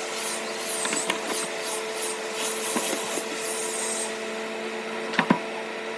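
Steady hum of a small motor, with rapid high chirps for the first four seconds and two sharp knocks a little after five seconds.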